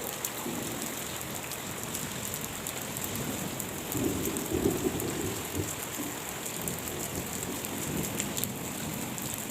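Steady rain falling, with a dense patter of drops hitting surfaces. A low rumble swells briefly about four to five seconds in.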